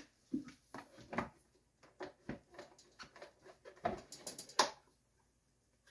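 Engine hood of a Mercury 3.5 hp four-stroke outboard being unlatched and lifted off: a series of clicks and knocks, with a cluster of the loudest about four seconds in.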